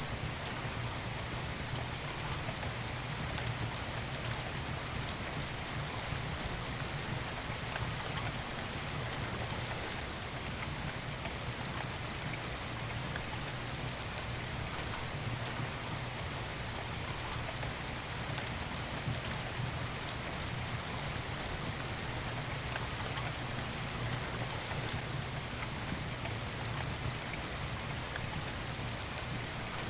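Steady rain falling, with occasional faint pops from a crackling fireplace.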